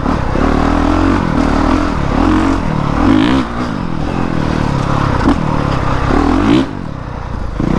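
Honda CRF450R's single-cylinder four-stroke engine revving up and down repeatedly while the dirt bike is ridden, the throttle opening and closing every second or so; the engine eases off near the end.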